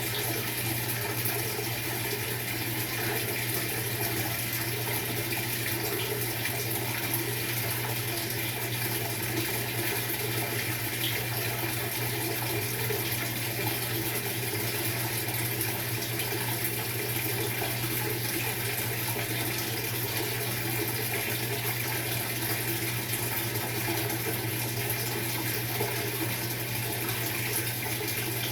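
Maytag MVWX655DW1 top-load washing machine running its tub clean cycle: a steady rush of water in the machine over a constant low hum.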